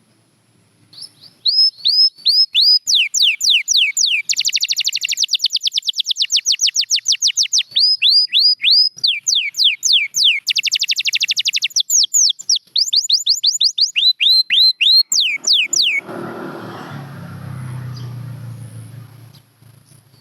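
Domestic canary singing: a loud song built of phrases of rapid, repeated downward-sliding whistled notes, twice breaking into a very fast trill. Near the end the song stops and a lower, noisy rushing sound follows for about three seconds.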